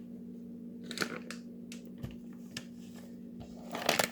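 Light clicks and taps of spice containers and a measuring spoon being handled over a bowl, with a small cluster of clicks near the end, over a steady low hum.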